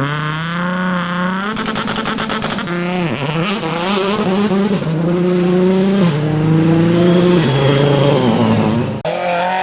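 Rally car engine revving hard under load, its pitch rising and falling and stepping down at gear changes, with a rapid string of exhaust pops about two seconds in. Near the end the sound cuts abruptly to another engine.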